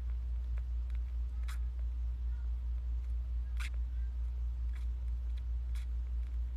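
A steady low rumbling hum that swells and fades evenly, with four faint short clicks or squeaks spread through it.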